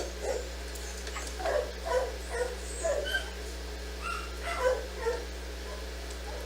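Dogs barking and yipping in a quick series of short calls, over a steady low hum.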